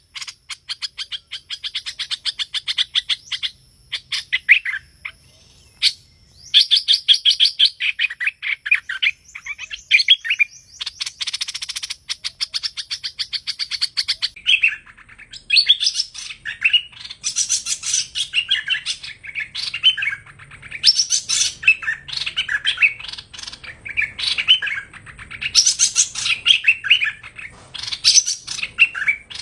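Song of the hoành hoạch bird, a songbird kept and trapped in Vietnam, in its prized 'thơm' (sweet) voice, as used to lure birds to a trap. It opens with fast chattering trills of rapid notes, with a denser run just before the middle, then turns to varied, quick chirping phrases.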